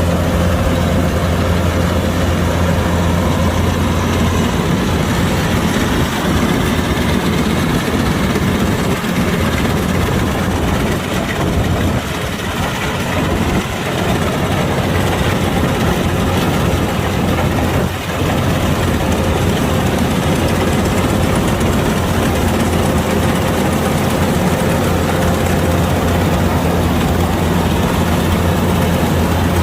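Kubota DC-105X combine harvester's diesel engine running. Its steady low hum breaks up in the middle, with two brief dips, and settles back to a steady note about two-thirds of the way through.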